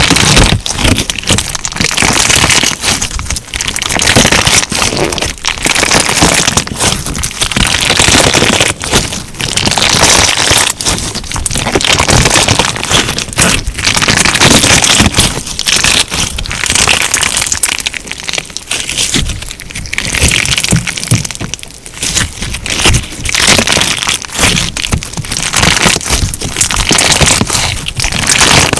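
Crunchy clear slime being squeezed and pressed by hand, giving dense crackling and popping in waves every second or two.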